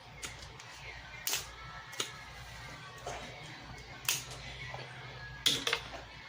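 Close-miked eating: a series of sharp, wet smacks and clicks from the mouth and the food, about six in all, the loudest a quick pair near the end.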